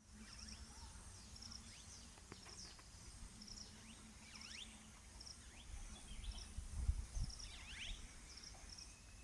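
Outdoor bird ambience: wild birds chirping with quick sliding calls, over a high, evenly repeated insect-like chirp and a low rumble.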